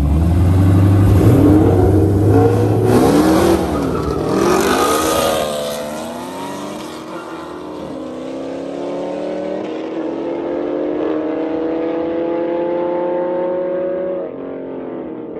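V8 muscle-car engines revving loudly at full throttle, the pitch swinging up and down, then climbing steadily through a gear change as the cars pull away and the sound grows quieter and duller.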